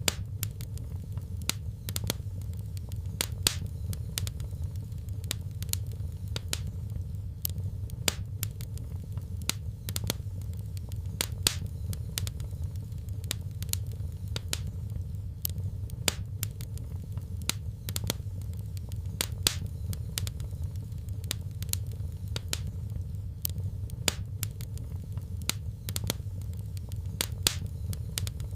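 Wood fire crackling, with irregular sharp pops and snaps several times a second over a steady low rumble of the flames.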